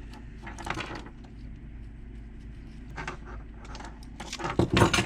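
Small metal lock parts clicking and clinking against each other and the bench as wafers and springs are fitted into a car hatch lock cylinder, with a burst of louder clicks and knocks near the end.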